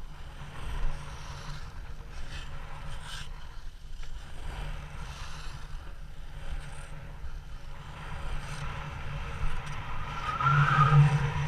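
Ice skate blades scraping and gliding over frozen sea ice, with wind noise on the microphone. A louder pitched sound rises briefly near the end.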